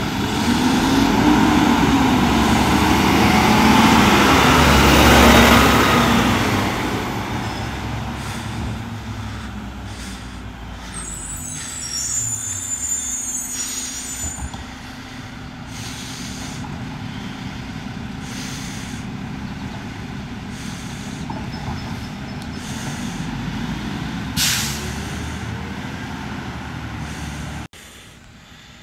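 Mack LR garbage truck with a Labrie Automizer side loader: the engine revs up and down for the first few seconds, then runs steadily. A high squeal comes about twelve seconds in, and a short, sharp air-brake hiss about twenty-four seconds in. The sound drops off suddenly just before the end.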